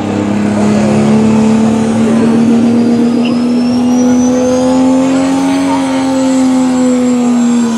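Diesel pickup truck engine of the 3.0 Limited Pro class held at high revs, its pitch creeping slowly upward as it builds boost, with a thin turbo whistle rising over the top.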